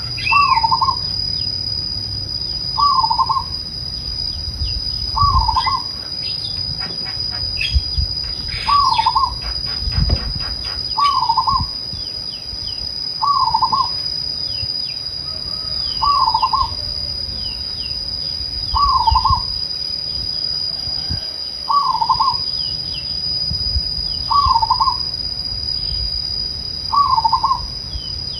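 Zebra dove (perkutut) cooing: a short phrase of soft notes repeated about every two and a half seconds, a dozen times over.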